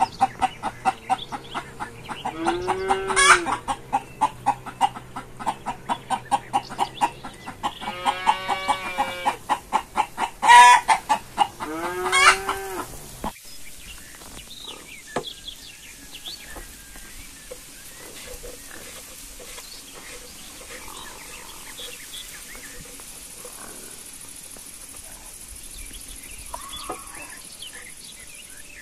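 Chickens clucking in a fast, even run, with three longer crowing calls from the flock. The sound stops abruptly about 13 seconds in and gives way to a quieter background with faint scattered taps.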